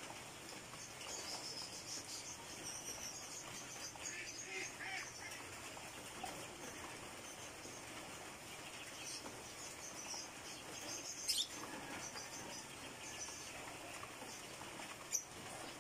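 Light rain falling with a steady hiss, while small birds chirp in short, high twitters, busiest in the first few seconds and again in the second half. Two sharp clicks stand out above the rain, one past the middle and one near the end.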